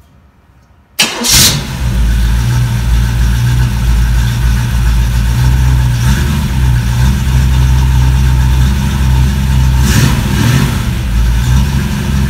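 A 283 small-block Chevrolet V8 on a run stand starts about a second in and settles straight into a steady idle, breathing out through a pair of Flowmaster 50 Series Delta Flow chambered mufflers. Its speed rises briefly twice, near the middle and near the end.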